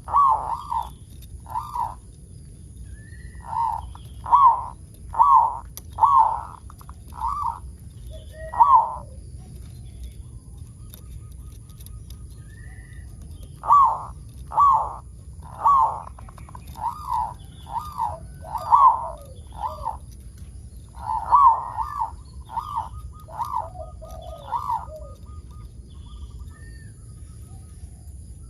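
Zebra dove (perkutut) singing: phrases of short, quick cooing notes, several to a phrase, with pauses of a few seconds between phrases.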